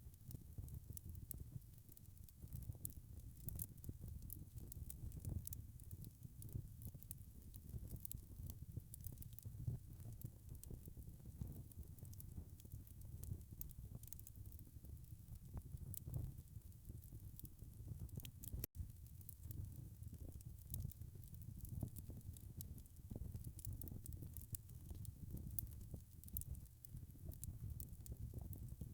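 Wood fire crackling in a fireplace: a dense run of small sharp pops and snaps over a low, steady rumble of the flames. The sound drops out for an instant about two-thirds of the way through.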